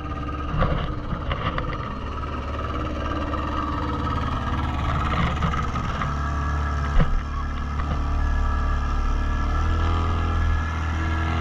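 Motorboat engine running steadily while towing, growing a little louder near the end, with one sharp knock about seven seconds in.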